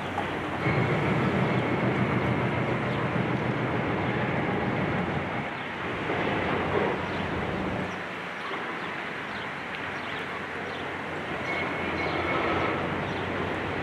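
Demolition machinery at work: a heavy excavator runs with a steady low hum under dense rumbling and grinding that is loudest for the first few seconds. A brief high squeal comes twice, near the start and near the end.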